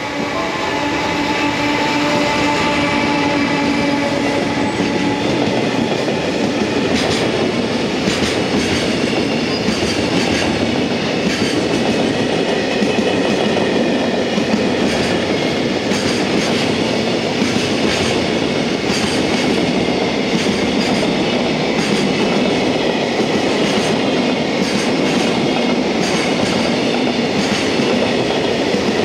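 Freight train hauled by an EF210 electric locomotive passing close by: a steady tone from the locomotive for the first few seconds, then the container wagons rolling past with a continuous rumble and repeated wheel clacks over the rail joints.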